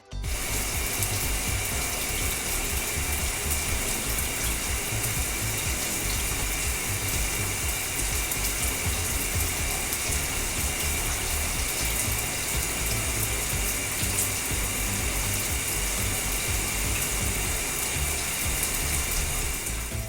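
Cartoon car-wash sound effect: a steady hiss of spraying water with a mechanical rattle under it.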